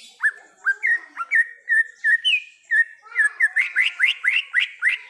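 Green leafbird (cucak ijo) singing: a run of short, upward-slurred whistled notes, about three a second at first, then quickening and getting louder about three seconds in.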